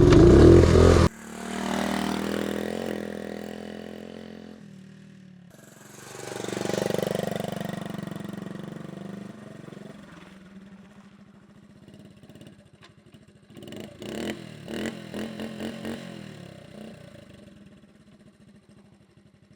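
Motorcycle engine: a loud stretch that cuts off suddenly about a second in, then twice swelling as it accelerates and fading away. In the second half it runs at a low, even pulsing beat, with a run of sharp clanks and knocks partway through.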